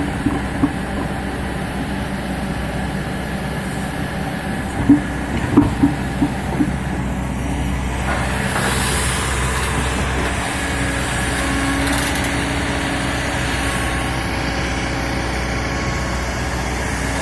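Heavy diesel machinery, an excavator loading a tipper truck, running steadily with a continuous engine hum. A few short knocks come about five to seven seconds in, and the noise grows a little after about eight seconds.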